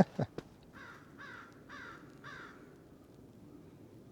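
A bird gives four short, harsh calls about half a second apart, after a few soft knocks at the start.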